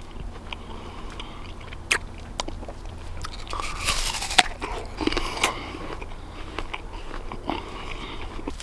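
A person biting into and chewing a crisp apple picked from a wild apple tree: sharp crunchy bites about two seconds in and again around four and five seconds in, with chewing between them.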